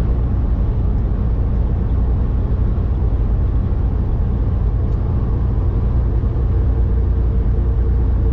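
Steady drone of a Volvo semi truck's diesel engine with road noise, heard from inside the cab while cruising.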